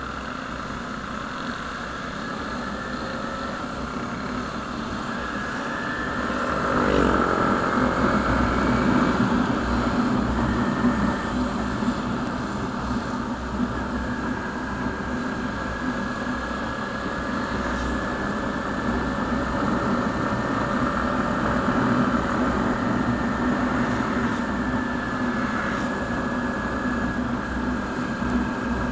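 Motorcycle engine running steadily while riding, getting louder about seven seconds in.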